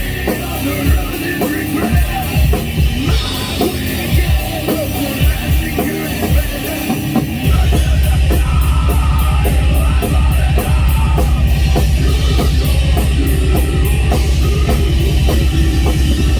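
Loud heavy rock music with drums. About seven seconds in it shifts from separate drum hits to a dense, driving low rhythm with quick, even cymbal strokes on top.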